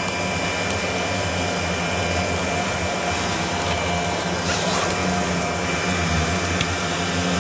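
A swarm of golden-ringed tiger hornets (Asian giant hornets) buzzing around their dug-out nest: a steady, dense drone of many wingbeats.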